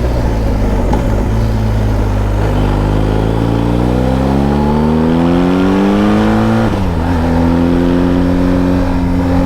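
Motorcycle engine and exhaust under way, pulling steadily with the pitch rising from a few seconds in, then dropping sharply at a gear change about two-thirds of the way through and holding steady after.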